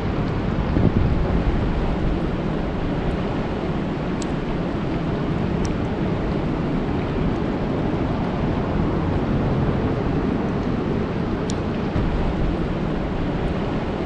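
Steady rain falling on a lake's surface: a dense, even hiss over a deep rumble, with a few faint, brief high ticks.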